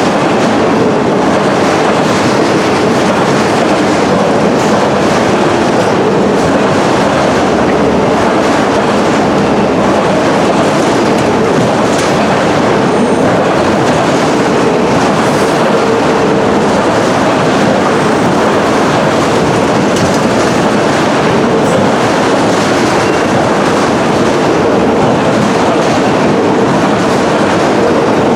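Freight train cars rolling past at steady speed, a continuous rumble of steel wheels on rail with clickety-clack from the rail joints.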